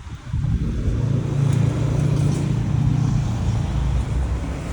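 A motor vehicle's engine running close by as a steady low hum, swelling just after the start and loudest in the middle before easing slightly near the end.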